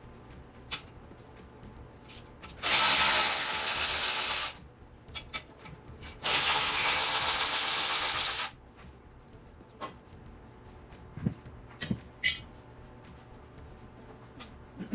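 Handheld power tool run in two bursts of about two seconds each, driving fasteners while a truck seat is reassembled, with small clicks and knocks of handling between and after.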